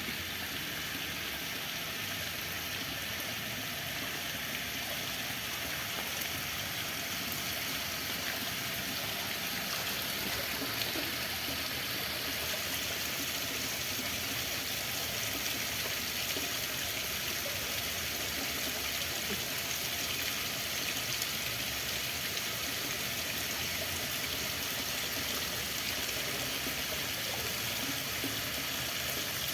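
Running water: a steady, even rush of flowing water that keeps on unbroken.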